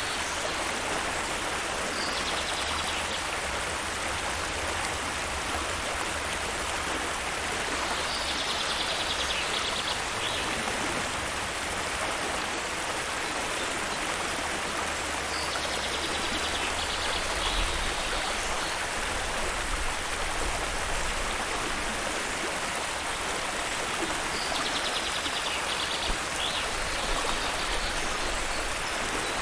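Steady rush of flowing stream water, with a short high bird trill repeating four times, about every eight seconds.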